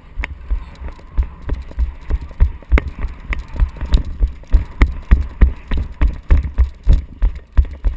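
Running footsteps: a steady train of heavy thuds, about three a second, with sharp clicks over them.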